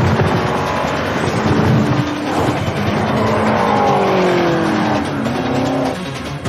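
Car engines revving and running hard, with several engine notes gliding down in pitch about halfway through, over tyre and road noise.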